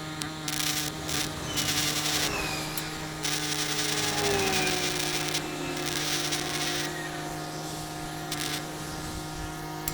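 Several bursts of harsh, hissing metalwork noise, each lasting about half a second to two seconds, over a steady machine hum.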